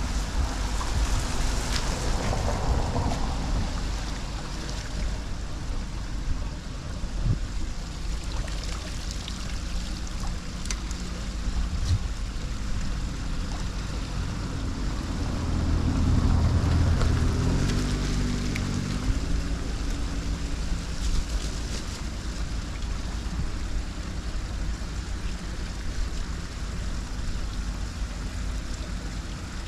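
Floodwater rushing steadily into a storm drain, with a motor vehicle's engine passing about halfway through, its hum rising and stepping in pitch before fading.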